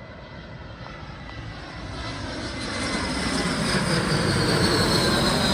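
Jet airliner on approach, its engine noise growing louder as it nears. In the second half a high engine whine slides slowly down in pitch as the jet passes.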